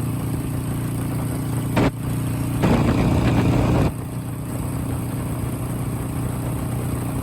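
Motorcycle engine running steadily on the road, getting louder for about a second around three seconds in.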